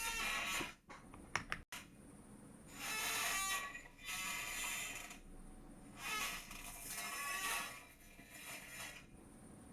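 Chair creaking in a series of separate creaks, each lasting about a second, with a few sharp clicks between the first and second creak.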